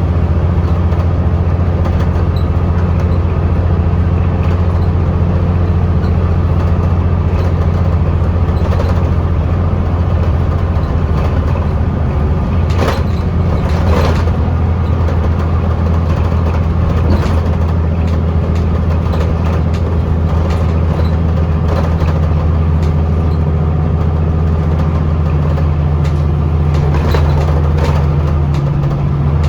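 Scania L94UB bus's nine-litre five-cylinder diesel engine running steadily under way, heard from on board, with interior rattles and two sharper knocks about halfway through. The engine note shifts near the end.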